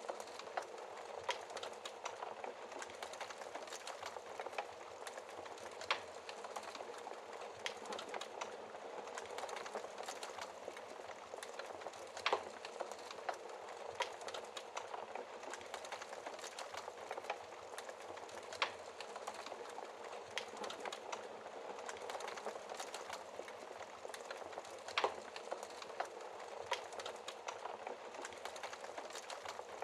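Logs crackling in a fireplace: a constant patter of small clicks with a few louder pops, over a steady hiss of rain.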